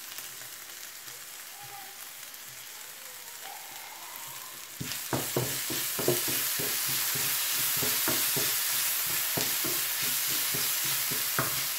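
Sliced onions sizzling in oil in a frying pan, quietly at first, then louder from about five seconds in as chopped garlic goes in, with a wooden spatula repeatedly knocking and scraping against the pan as it is stirred.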